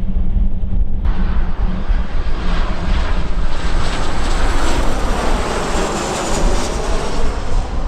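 Airliner engines passing close, starting abruptly about a second in and building to a peak about five seconds in, then easing. Wind buffets the microphone throughout.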